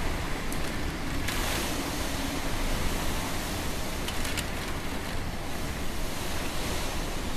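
Typhoon wind blowing hard and steadily, buffeting the microphone. There is a brief louder rush about a second in and a few faint clicks around four seconds in.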